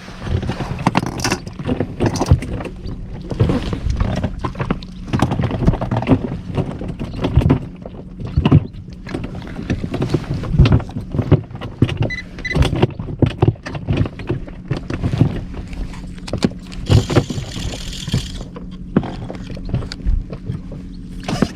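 Inflatable boat under way, with an outboard motor running as a steady low hum beneath frequent irregular knocks and thumps of the hull on the waves, and a brief rush of splashing spray about 17 seconds in.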